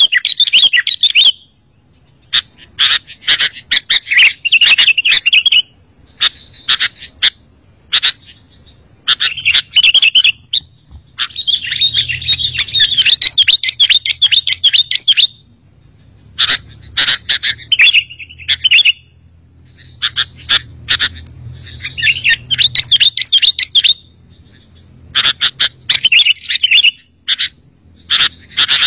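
Sooty-headed bulbul song: repeated bursts of rapid, chattering chirps, each from about one to several seconds long, with short pauses between them, over a faint steady high tone.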